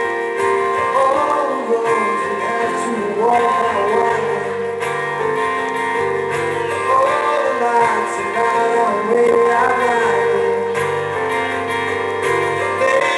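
Live band music: strummed guitar with keyboard and a male lead vocal.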